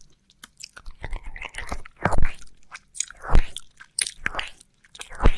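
ASMR ear-licking mouth sounds: wet licks, lip smacks and clicks close to the microphone, coming irregularly about once or twice a second.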